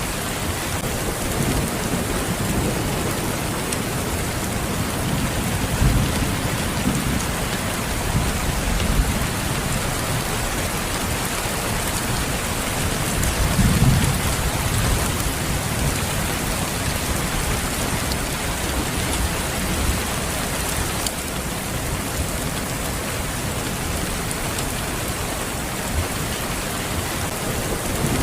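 Steady rain falling on a surface, with low rumbles of thunder swelling up a few times, the strongest about halfway through.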